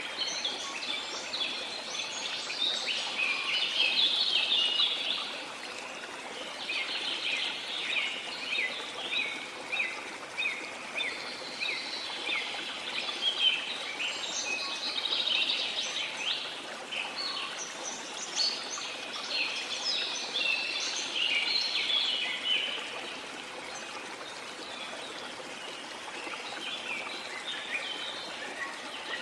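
Small songbirds chattering and chirping in dense bouts, with a short lull a little past two-thirds of the way through, over a steady rush of water.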